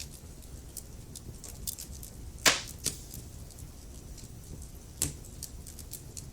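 Wood fire in a fireplace crackling: scattered small ticks over a steady low rumble, with a sharp pop about two and a half seconds in and smaller pops just after and near five seconds.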